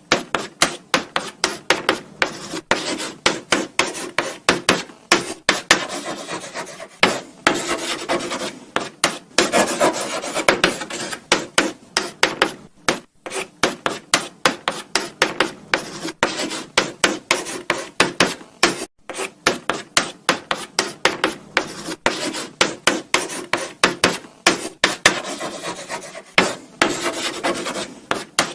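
Chalk writing on a blackboard: quick scratchy strokes, several a second, with brief pauses between bursts of writing.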